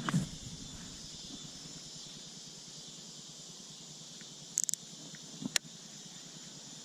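Steady, high-pitched chorus of insects such as crickets, with a few sharp clicks near the start and again about four and a half and five and a half seconds in.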